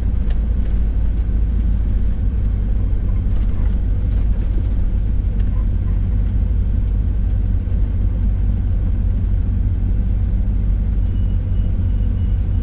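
1988 Ford Econoline camper van driving, a steady low drone of engine and road noise.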